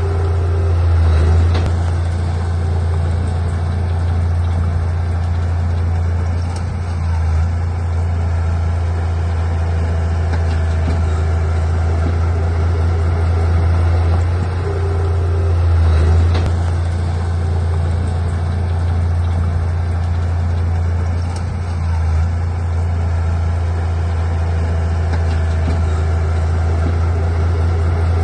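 Bulldozer's heavy diesel engine running steadily with a deep drone, swelling briefly a few times as it works under load.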